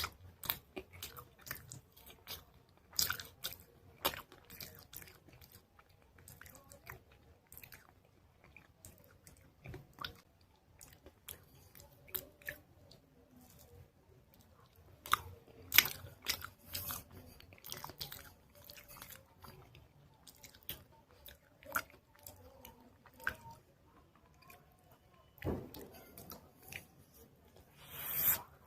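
Close-miked biting and chewing of soft chalk paste, with irregular small crunches and crackles, and a longer run of crackling near the end.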